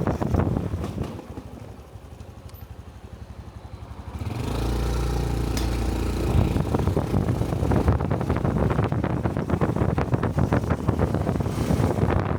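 Honda Cub 125 cc single-cylinder motorcycle engine. It eases down to a quiet low idle, then opens up about four seconds in as the bike pulls away. Wind buffets the helmet-mounted microphone as speed builds.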